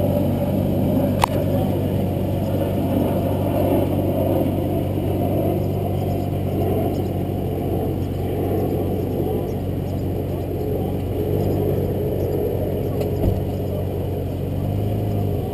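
2007 Nissan Maxima on the move: steady engine hum and road rumble, with a sharp click about a second in and a softer knock near the end. No high-pitched squeal from the Wilwood BP-10 brake pads.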